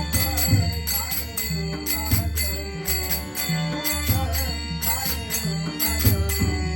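Traditional Konkan bhajan music: small hand cymbals clashing on a steady beat about twice a second over a drum and held harmonium-like tones, with a voice singing the melody.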